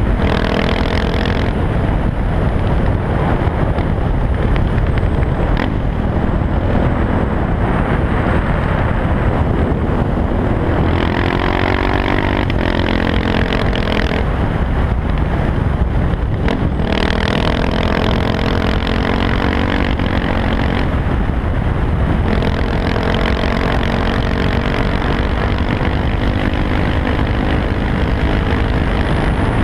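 KTM 690 SMC R single-cylinder engine through an Arrow exhaust with the dB killer removed, ridden under load: the pitch climbs and drops again and again as the bike accelerates, shifts and backs off, with brief throttle-off dips about halfway through.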